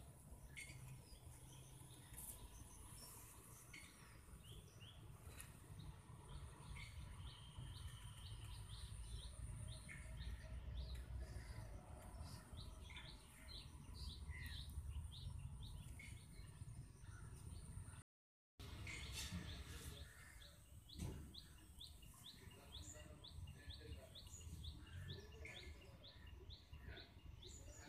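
Birds chirping in repeated series of short, high calls, faint, over a steady low rumble.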